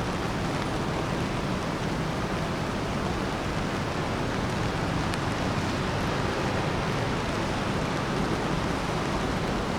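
Steady rain on a city street: an even hiss with a low rumble of traffic underneath, unchanging throughout.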